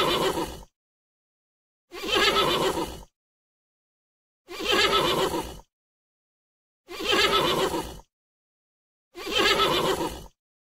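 Horse neighing, five times about two and a half seconds apart, each call lasting about a second, with dead silence between them.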